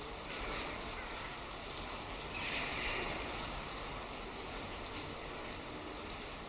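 Steady rush of running water, swelling briefly about two and a half seconds in.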